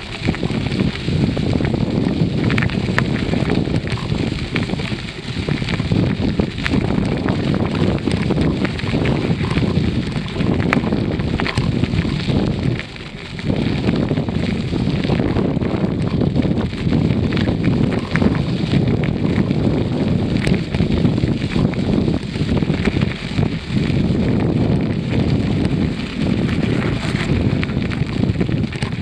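Wind buffeting the microphone of a camera on a moving bicycle: a loud, steady rumble with scattered clicks and rattles, easing for a moment about thirteen seconds in.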